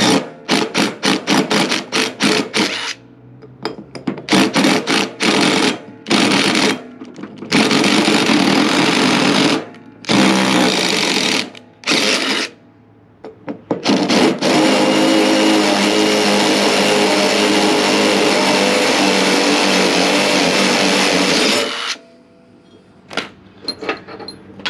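Handheld power tool run in repeated bursts on a mower-deck fastener. It opens with a rapid stuttering rattle of quick trigger pulls, then gives longer runs, the longest a steady run from about 14 to 22 seconds in.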